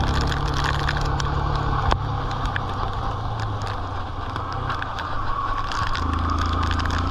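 Yamaha FZ motorcycle engine running steadily while riding in heavy rain, with rain hiss and scattered sharp ticks of drops; the engine note drops back a little from about two seconds in and picks up again near the end.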